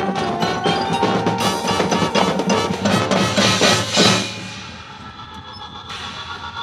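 High school marching band playing its field show, with drums and mallet percussion over the music. It builds to a loud hit about four seconds in, then falls away to quieter held notes.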